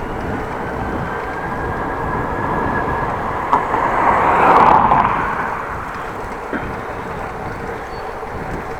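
Steady outdoor road noise that swells to its loudest about halfway through, as a vehicle passes close by, then fades.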